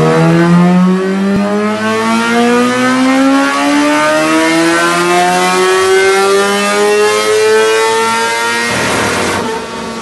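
Motorcycle engine accelerating in one long, steadily rising pull with no gear change. Near the end it gives way to a brief rushing whoosh, after which a quieter, lower engine note begins to fade.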